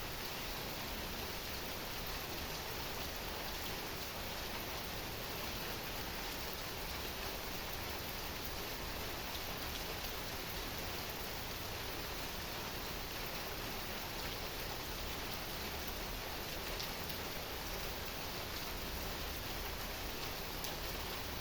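Heavy rain falling steadily: an even hiss of rain with occasional faint individual drops ticking.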